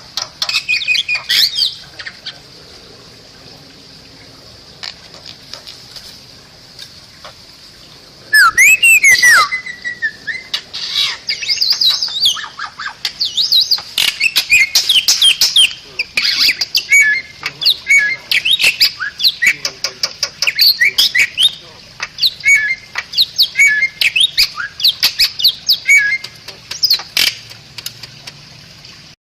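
Bali starling singing: a varied run of chirps, whistles, sliding notes and harsh squawks over a steady high hiss. It is sparse for the first few seconds, then loud and busy from about a third of the way in.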